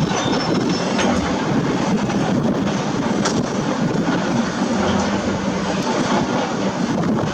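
Heavy construction machinery at work: a diesel engine running steadily under load, with a few short knocks.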